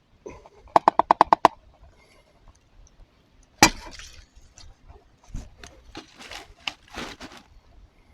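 Quick run of about eight sharp, ringing taps on the metal mess kit pot, then one louder knock followed by scattered clinks and scrapes of utensils against the pot.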